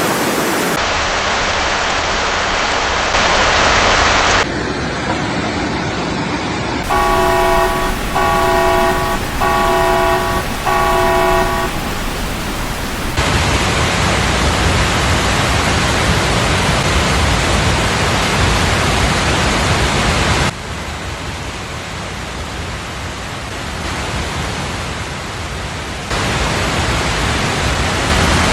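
Steady, loud rushing of floodwater whose character changes abruptly several times. About seven seconds in, a vehicle horn honks four times, about once a second.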